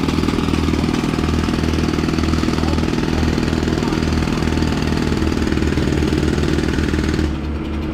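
Gas-powered concrete cut-off saw running under load as it cuts curb concrete, stopping abruptly about seven seconds in.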